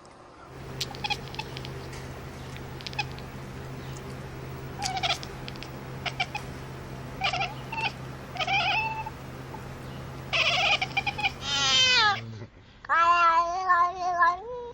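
An animal calling over a steady low hum. Short pitched cries come about five, seven and eight and a half seconds in, then a longer call, a cry falling steeply in pitch, and a drawn-out call near the end that rises at its close.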